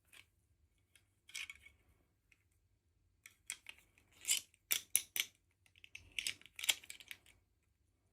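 Small plastic toy packaging being handled and opened: a short crinkle about a second in, then a run of sharp clicks and crinkles from about three to seven seconds in.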